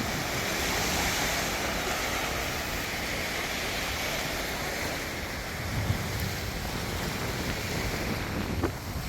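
Steady rush of wind and sea water, with wind buffeting the microphone in uneven low rumbles.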